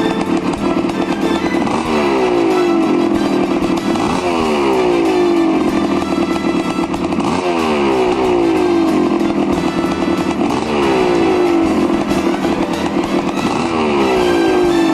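Yamaha YZ250's single-cylinder two-stroke engine running after a rebuild, the throttle blipped about every two to three seconds so the revs jump and then sink back to a fast idle.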